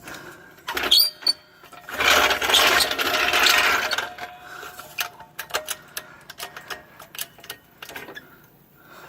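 Floor jack being lowered and shifted under the truck's frame: sharp metal clicks, a rushing scrape lasting about two seconds, then a run of quick light clicks and clanks.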